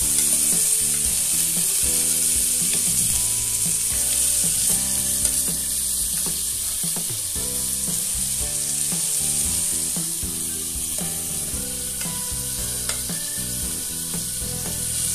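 Boiled chicken pieces sizzling in hot ghee and frying onion in a clay pot, with a steel ladle stirring and scooping more pieces in from a pressure cooker. The sizzle runs steadily throughout.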